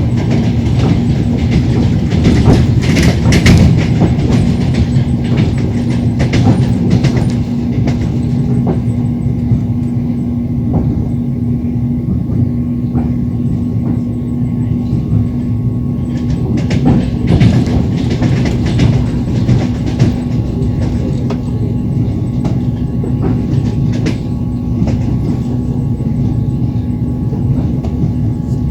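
Passenger train wheels running over rail joints, heard from inside a moving carriage: a steady rumble with a low hum and irregular clicks and knocks.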